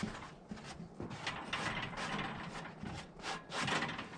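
Irregular metallic clicks, clatter and rubbing from parts of a band sawmill being handled by hand around the band wheel and blade.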